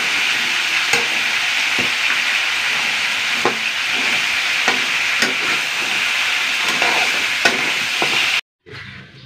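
Blue swimmer crabs frying in a large metal wok as a metal spatula stirs them: a steady sizzling hiss with scattered clacks of spatula and shells against the pan. The sizzling cuts off abruptly near the end.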